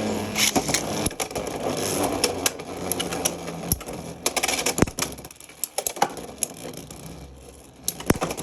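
Beyblade X spinning tops whirring and clashing in a plastic stadium, with many sharp hits and rattles. The whirring and clatter thin out about five seconds in, with a few more hits near the end.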